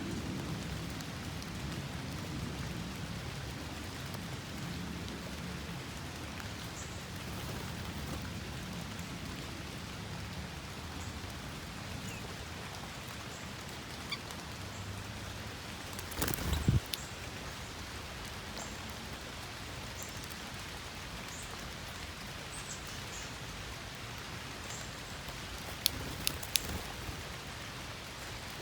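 Steady rain falling, with a few sharp knocks: a cluster about halfway through and a few more near the end.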